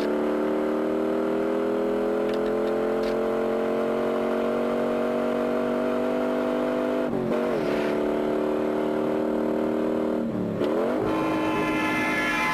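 A car's V8 engine running hard under load, its note climbing slowly and steadily. The pitch dips sharply and recovers twice, about seven and ten and a half seconds in, as the driver lifts off or shifts.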